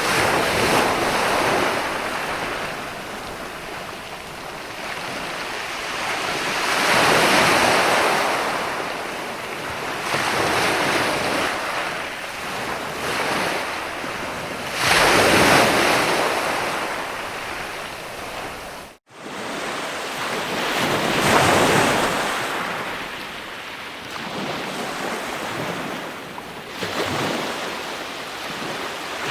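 Ocean surf: waves breaking and washing in, the hiss swelling and fading every several seconds. About two-thirds of the way through, the sound cuts out completely for a moment and then resumes.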